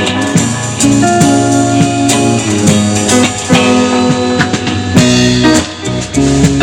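Live band playing an instrumental passage: guitar over bass and drum kit, with no singing.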